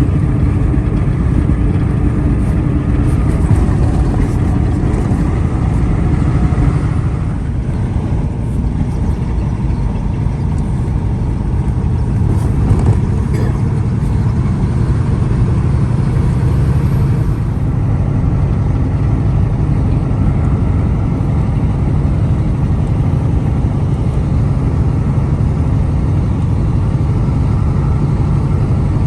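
Semi truck on the move: a steady low engine and road rumble.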